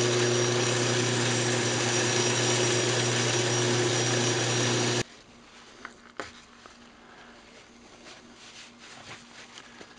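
Wood lathe running while a spinning maple burl lid is sanded with 600-grit paper: a steady motor hum with a sanding hiss. It cuts off abruptly about five seconds in, leaving only a few faint handling clicks.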